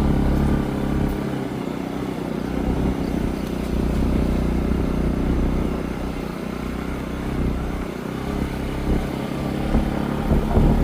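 A vehicle's engine running steadily under way on a rough road, with the level rising and falling a little.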